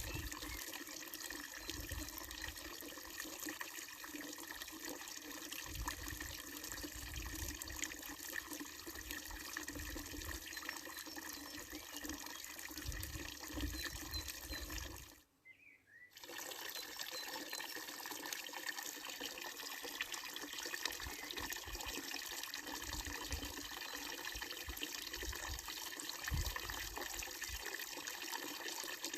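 Water running steadily from a wooden-trough fountain spout and splashing into its basin. The sound drops out to near silence briefly about halfway through.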